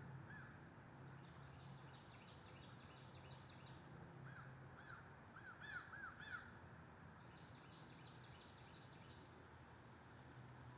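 Faint outdoor birdsong: one bird repeats a rapid high trill, and another gives a quick run of arched chirps around the middle. Under it is a soft steady hiss of wind.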